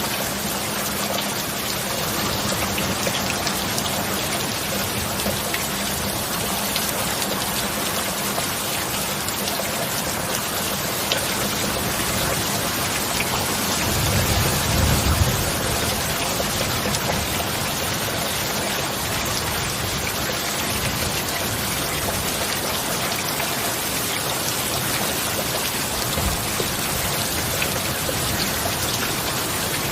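Heavy rain falling steadily, with a brief low rumble of thunder about halfway through.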